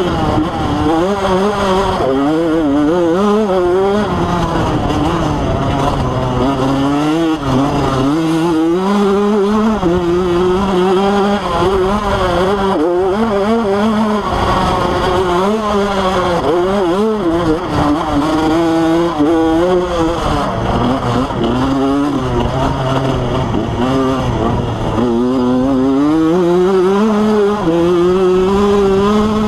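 Motocross bike engine running hard, its pitch rising and falling constantly as the throttle is worked, with a long climb in revs near the end.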